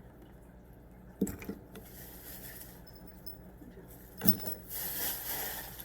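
Small pet toys and treat packets being handled and set down: two sharp knocks about three seconds apart, then rustling from near the end.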